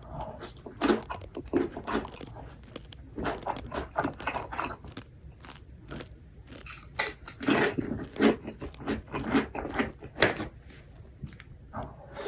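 Crunchy food being bitten and chewed close to the microphone, in irregular clusters of sharp crunches.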